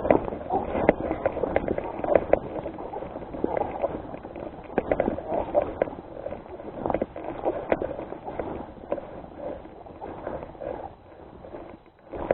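Footsteps crunching and rustling over rough ground, an irregular run of short knocks and scuffs that eases off near the end.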